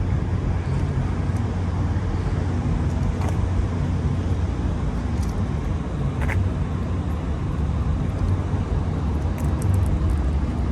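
A car engine running steadily, a low even hum with a few light clicks above it.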